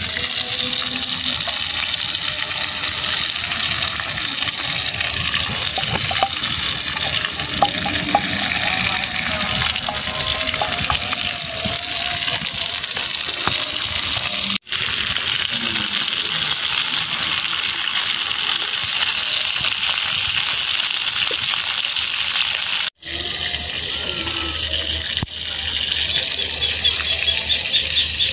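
Battered banana pieces deep-frying in hot oil in a small pan: a steady bubbling sizzle, broken twice by brief gaps.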